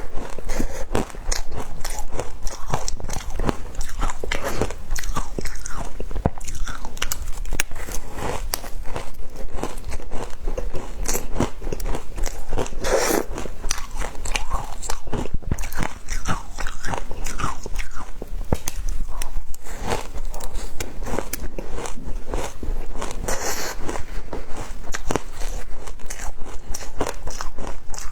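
Frozen matcha ice being bitten and chewed: a continuous run of crunching and cracking, with a few louder crunches along the way.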